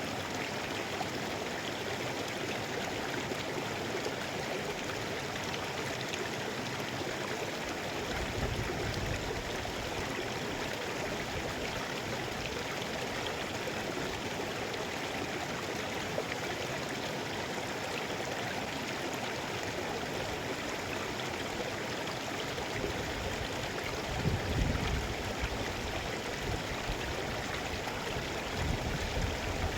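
Mountain river flowing with a steady rushing hiss. A low rumble comes and goes from about a quarter of the way in, strongest near the end.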